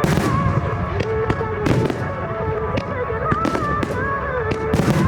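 Fireworks bursting and crackling in quick succession, many sharp bangs, over a song with a singing voice played through the display's loudspeakers.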